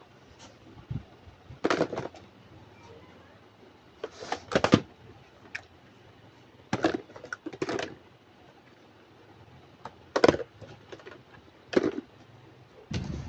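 Small plastic toy kitchen pieces being handled and set down: sharp clicks and knocks every second or two, some in quick clusters of two or three.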